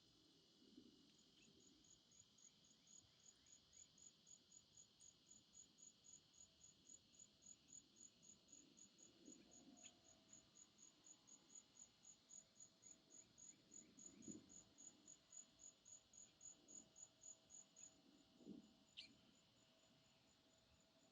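Faint, high-pitched insect chirping in an even rhythm of about three chirps a second, over a steady insect drone. The chirps weaken near the end, and a brief descending note sounds about a second after they fade.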